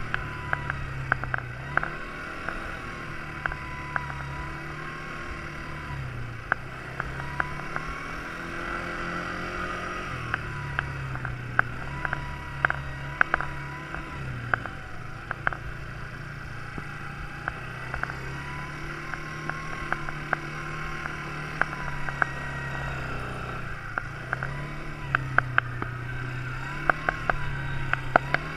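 Quad bike engine running as it is ridden, its pitch rising and falling every few seconds as the throttle is opened and eased off. Frequent sharp clicks and knocks sound over it.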